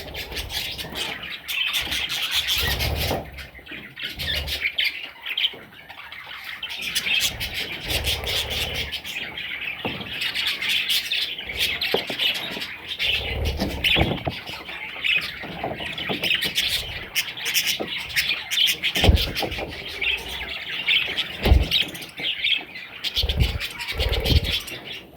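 Budgerigar chicks chirping and squawking almost continuously, with occasional soft bumps and rustles.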